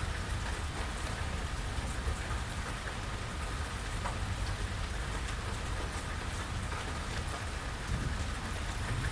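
Steady rain falling, with scattered individual drips and a low rumble underneath.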